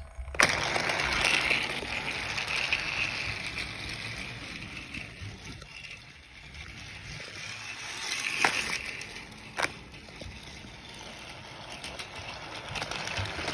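Battery-powered TrackMaster toy engine running along plastic track: a steady whirring rattle of motor and wheels, with two sharp clicks about eight and a half and nine and a half seconds in.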